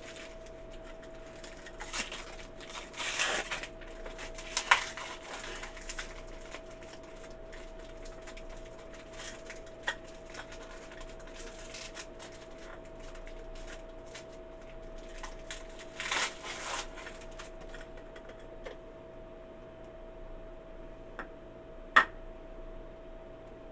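Handling noise: rustling and clicking of plastic parts and packaging being picked up and set down, with a few sharp clicks, the loudest near the end. A faint steady hum runs underneath.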